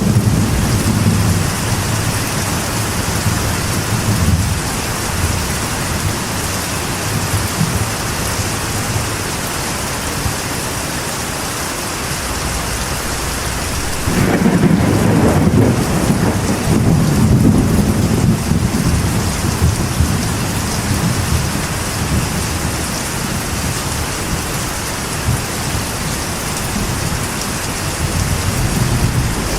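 Steady rain pattering on a metal roof, with rolling thunder rumbling. The rumbles swell near the start, again more strongly about halfway through for several seconds, and once more near the end.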